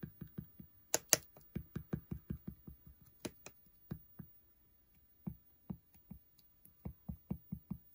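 A run of light taps, about four or five a second, with a short pause in the middle and a few sharper ones among them.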